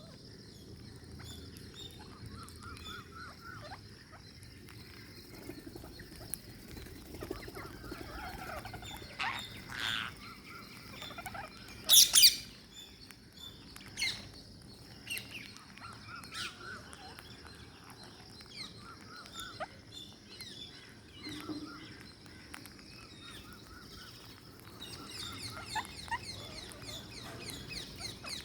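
Ring-necked parakeets chirping in short repeated calls, with a few louder shrill calls, the loudest about twelve seconds in.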